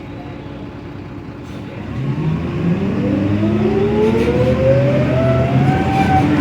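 Mercedes-Benz OM906LA six-cylinder diesel of a rear-engined bus running low for about two seconds, then revving up steadily as the bus pulls away under load. Near the end the pitch drops as the ZF Ecomat automatic gearbox shifts up.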